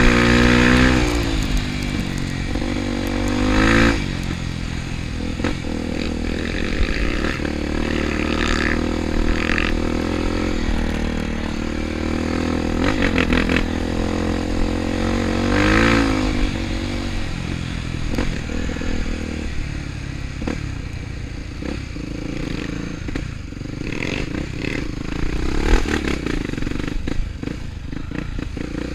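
Trail motorcycle engine running continuously, revving up and easing off several times, strongly near the start and again about four and sixteen seconds in.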